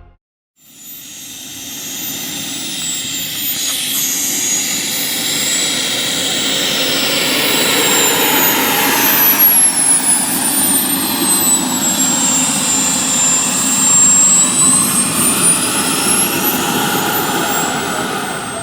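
Small gas turbine of a radio-controlled BAE Hawk model jet running with a loud jet roar and a high-pitched whine. The sound swells, then eases off near the end, and the whine dips in pitch before climbing again.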